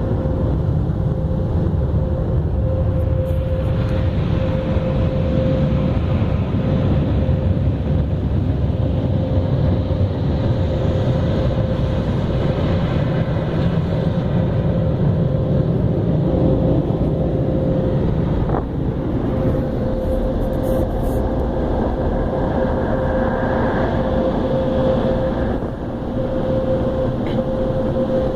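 Automatic car wash machinery working over the car, heard from inside the cabin: a loud steady rush with a low rumble and a constant whine.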